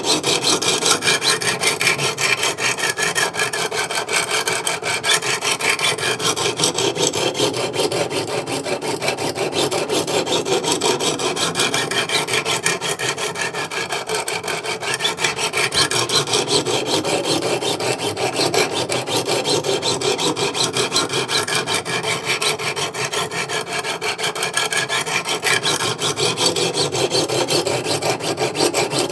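Coarse 200-grit diamond sharpening stones of a Wicked Edge Go guided sharpener rasping along an S35VN steel knife edge in repeated slow, even strokes, each pass sweeping from the heel to the tip. This is the coarse stage of sharpening a dull blade, grinding the bevel to raise a burr.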